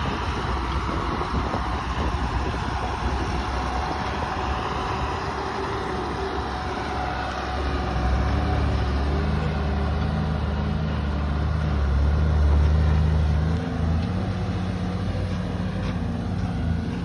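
JCB backhoe loader's diesel engine running, with rough, noisy sound at first. About halfway through it settles into a louder, steady low hum, swelling further a few seconds later with a brief dip near the end.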